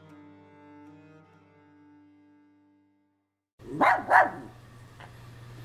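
Slow bowed-string music, cello-like, fading away over the first three seconds; after a short silence, a dog barks twice in quick succession, loud and sharp, over a low steady hum.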